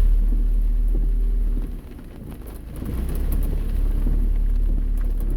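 A car driving in heavy rain, heard from inside the cabin: a steady low rumble from the road, with rain hitting the car. The rumble eases for about a second near the middle, then comes back.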